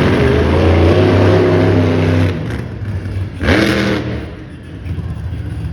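Monster truck engine revving hard and holding high for about two seconds before easing off, then a quick sharp rev that climbs steeply about three and a half seconds in and falls away.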